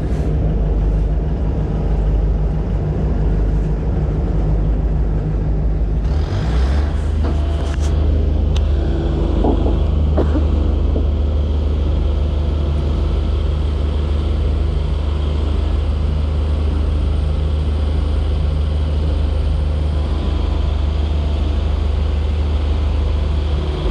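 Motorboat engine idling steadily in gear-neutral, a deep hum whose note shifts about six seconds in, with a few knocks and clicks around then.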